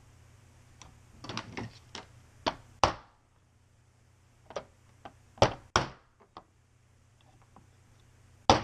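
About a dozen sharp, irregularly spaced taps and knocks, a few of them much louder: metal bushings being tapped into an airsoft gun's version 3 gearbox shell.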